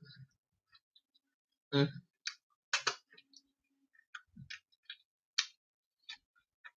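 Close-up mouth sounds of a person chewing a chili dog: irregular wet clicks and lip smacks, with a brief hummed "mm" about two seconds in.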